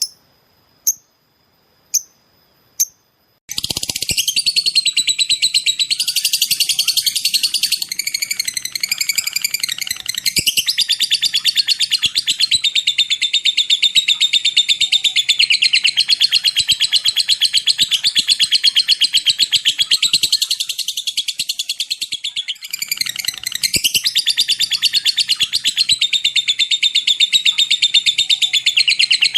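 A lovebird singing: four short sharp chirps about a second apart, then a long, unbroken, very rapid high-pitched chattering trill (the "ngekek panjang" long chatter) that runs on with only a short dip about three-quarters of the way through.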